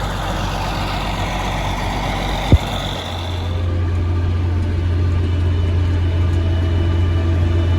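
Engine of the farm spraying rig running steadily as it sets off on a tank of Roundup, with a single sharp click about two and a half seconds in. From about three seconds a deeper, steady drone takes over and grows slightly louder as it gets under way.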